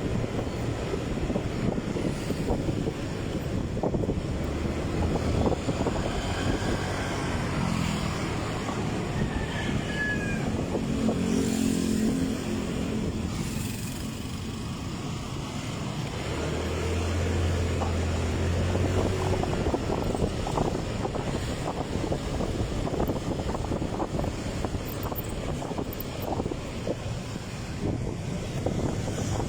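Motorcycle riding along a road: steady engine and road rumble with wind buffeting the microphone, and a steadier low drone for a few seconds past the middle.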